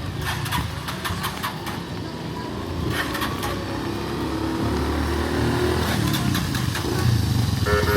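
Street traffic: a motor vehicle's engine running close by, getting louder over the last few seconds, with a few light clicks in the first half.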